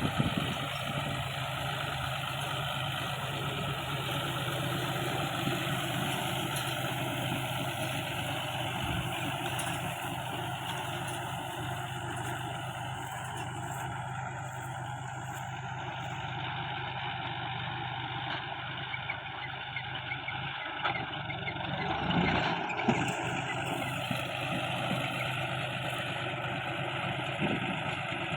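John Deere 5045 tractor's three-cylinder diesel engine running steadily while it drives an Aambal round baler, the baler's machinery noise mixed in, with a brief louder stretch about three-quarters of the way through.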